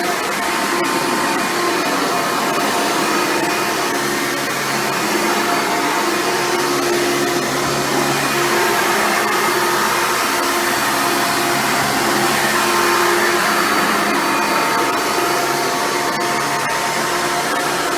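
Hoover Futura Elite upright vacuum cleaner running steadily while cleaning, its motor whir wavering slightly in pitch as it is pushed along.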